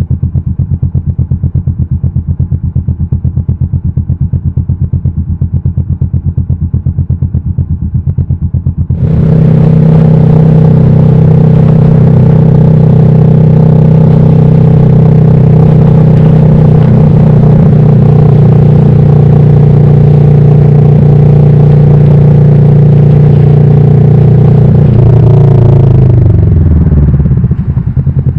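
Kawasaki Vulcan S's parallel-twin engine running at low revs, then about nine seconds in it becomes much louder and holds a steady pitch for some fifteen seconds. Near the end the pitch falls and the level drops back to the quieter running.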